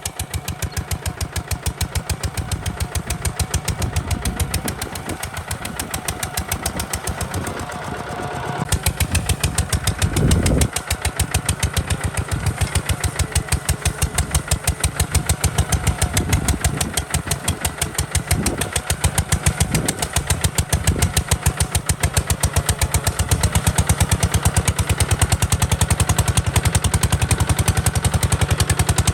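Kubota RT140 DI tractor's single-cylinder diesel engine running with a steady, rapid, even chugging beat; it gets louder about a third of the way in.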